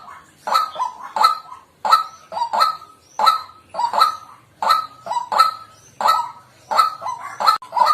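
White-breasted waterhen calling: harsh, honking 'kwak' notes repeated over and over, one or two a second, often in quick pairs.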